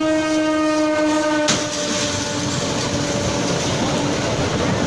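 Train horn blaring, then a sudden loud bang about a second and a half in, followed by a continuous crashing, grinding roar as the horn keeps sounding faintly: a train colliding.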